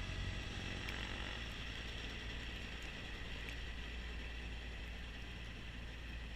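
Kubota B2650 compact tractor's three-cylinder diesel running steadily under load, driving its front-mounted snowblower: a continuous engine drone with a hiss from the blower. The low engine note drops about a second in.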